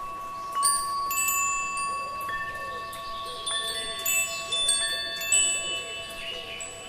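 Metal wind chime ringing: several clear tones at different pitches start sharply, overlap and ring on, with fresh strikes about every second.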